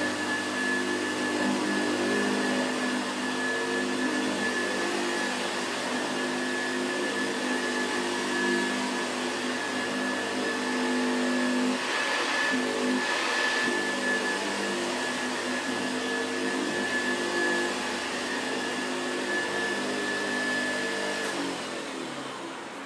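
Vintage Hoover Senior 638 upright vacuum cleaner running steadily with a high whine over its motor hum, then switched off near the end and winding down.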